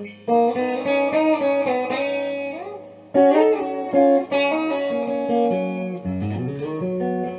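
Electric guitar built on a 3D-printed Stratocaster-style body, strung with 9-gauge strings tuned down a half step, played with picked notes and chords that ring on. Near the end a note dips in pitch and comes back up.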